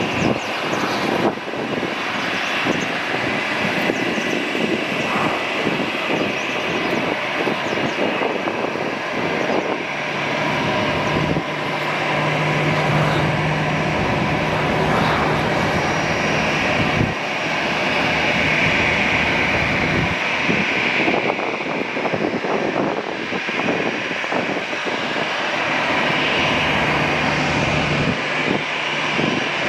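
Airbus A320 jet airliner's twin CFM56-5B turbofan engines running: steady jet noise with a high whine that grows stronger in the second half.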